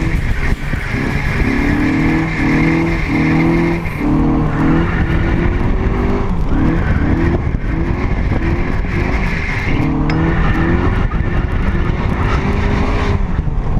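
Mazda MX-5's four-cylinder engine revving up and down in quick repeated surges as the car drifts, with tyres squealing on the tarmac. Wind buffets through the open cockpit.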